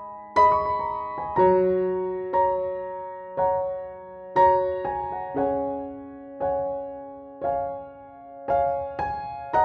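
Slow, gentle piano music: single notes and chords struck about once a second and left to ring out.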